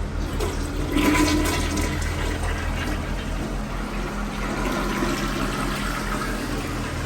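A toilet flushing: a rush of water starts about a second in, is loudest at first and tapers off over the next five seconds, over a steady low hum.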